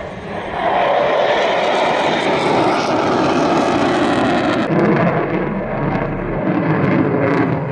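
Airplane engine noise from aircraft flying overhead: a loud, steady rushing sound whose tone shifts about two-thirds of the way in.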